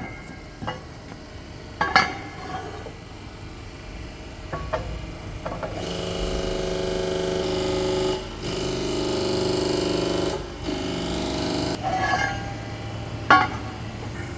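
Metal knocks and clanks on steel plate, with a power tool running steadily in three stretches from about six seconds in to about twelve seconds.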